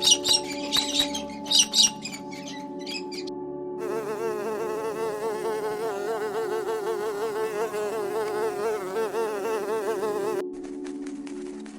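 Sharp bird chirps for the first three seconds. From about four seconds in, a flying insect buzzes loudly with a fast-wavering pitch, then stops suddenly near the end, over a steady background drone.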